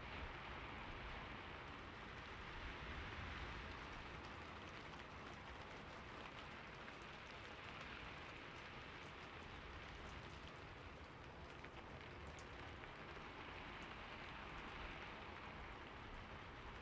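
Steady rain falling on a roof, an even hiss of many drops with scattered individual drop ticks.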